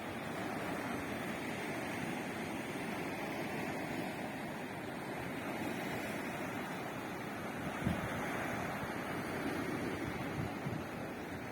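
Sea waves breaking and washing on the shore in a steady surf, with wind buffeting the microphone and a brief gust near the end.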